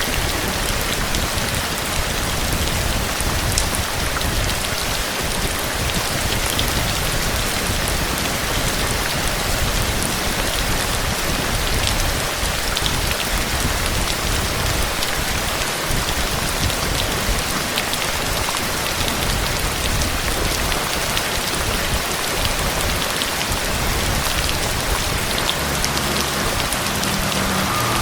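Heavy rain falling steadily: an even hiss with scattered sharp drop hits and a low rumble underneath.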